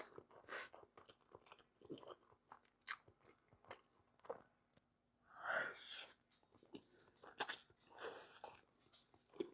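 Close-up chewing and mouth sounds of a person eating creamy green spaghetti and chicken: irregular wet smacks and clicks, with two longer, breathier sounds about halfway through and near the end.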